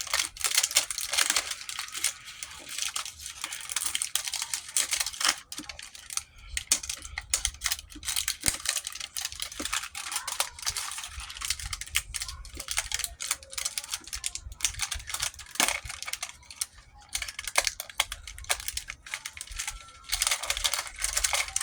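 Plastic toy container being worked open by hand: irregular crinkling, cracking and clicking of the plastic packaging as it is twisted and pried.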